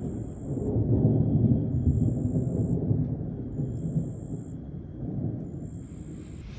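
Rolling thunder from a supercell thunderstorm: a low rumble that builds about half a second in, is loudest for the next second or two, then slowly fades. A faint high-pitched pulsing tone repeats about every two seconds above it.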